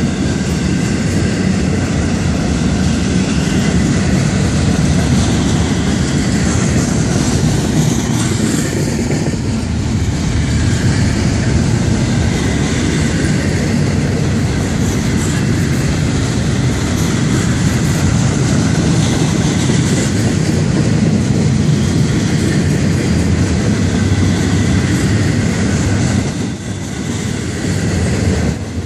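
Florida East Coast Railway freight train's double-stack container well cars rolling past close by: a loud, steady rumble of steel wheels on the rails, dipping briefly near the end.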